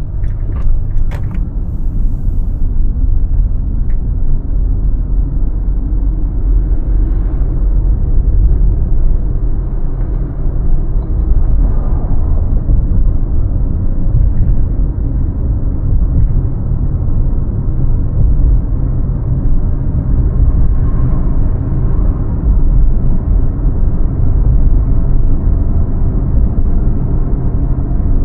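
A car driving, with a steady low rumble of road and engine noise. A few light clicks sound right at the start.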